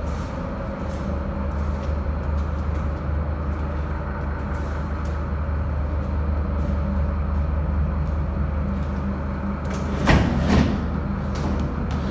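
Scania P270 truck's diesel engine running steadily, with a brief louder burst about ten seconds in.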